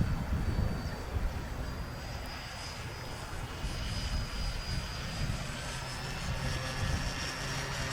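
Electric RC model Fw 190 flying, its motor and propeller giving a faint high whine that drifts slowly in pitch, over the low rumble of wind on the microphone.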